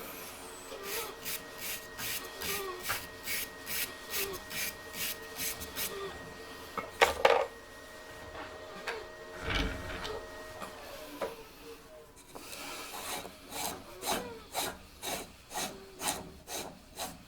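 Wood rubbing and rasping in quick, regular hand strokes, about two to three a second, with a pause and a couple of knocks in the middle before the strokes resume.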